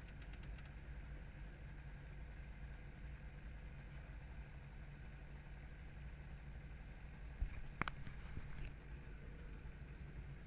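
Steady, muffled drone of a helicopter's engine and rotor, heard from inside the cabin. A sharp click comes about seven seconds in, followed by a brief high tone.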